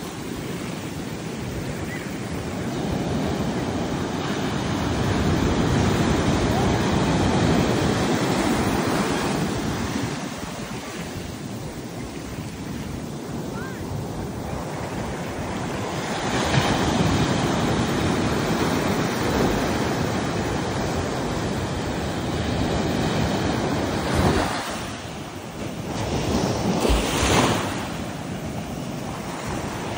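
Caribbean surf breaking and washing up a beach in slow swells that rise and fall every several seconds, with wind on the microphone. There are two sharper surges near the end.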